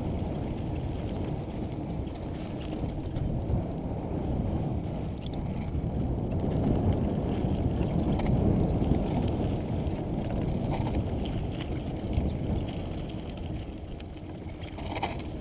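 Steady rumbling noise of a mountain bike rolling over a dirt trail, with wind buffeting the camera microphone and a few light rattles near the end.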